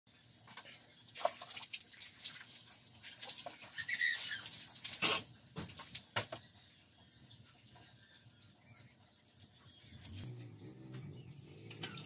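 Copper tubing being handled, clinking and knocking against itself in short scattered strokes over the first six seconds, then mostly quiet.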